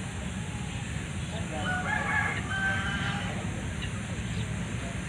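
A rooster crowing once, a single drawn-out crow of about a second and a half beginning about one and a half seconds in, over a steady low rumble.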